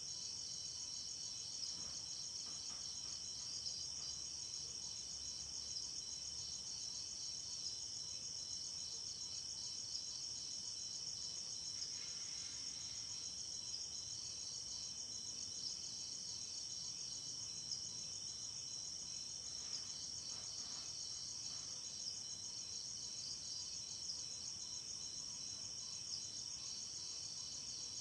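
A chorus of crickets chirping steadily: a high, continuous trilling with rapid pulses.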